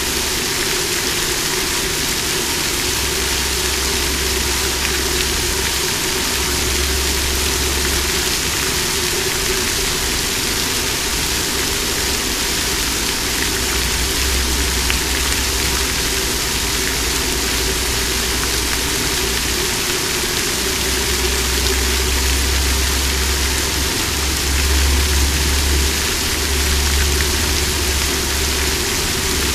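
Water fountain splashing steadily, with a low rumble underneath that swells and fades every few seconds.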